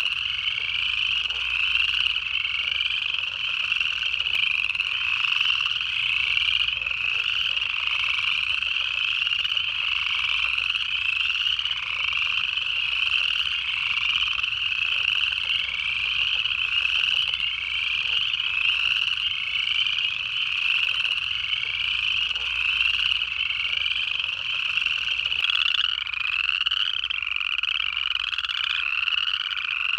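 Dense chorus of upland chorus frogs, many overlapping rising trills repeating in quick succession, steady throughout.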